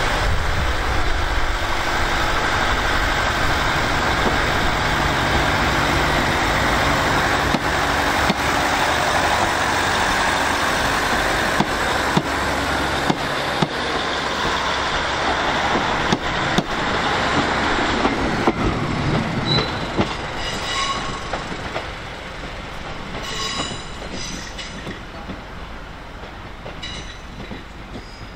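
A train running through the station: a low engine note at first, then a steady rumble with wheels clicking over rail joints, dying away over the last several seconds with a few short high squeaks.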